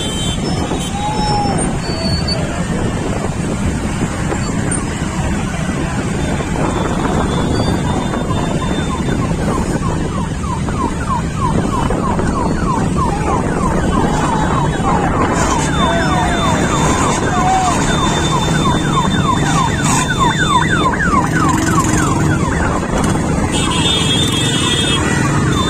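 Dense traffic noise of a motorcycle rally: many engines running together, with a rapid siren-like warbling through the middle stretch and short whoops and calls over it.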